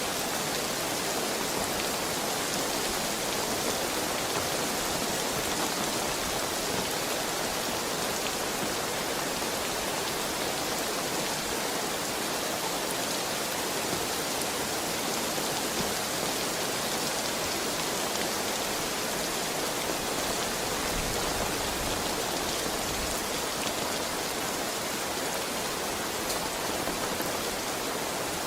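Heavy rain falling steadily as an even, unbroken hiss of drops on surfaces.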